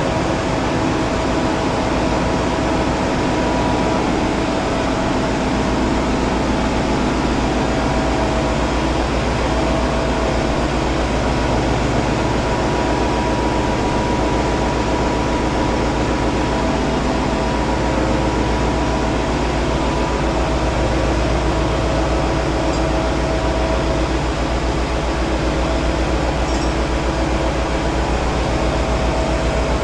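Marine diesel engine running steadily at a constant speed.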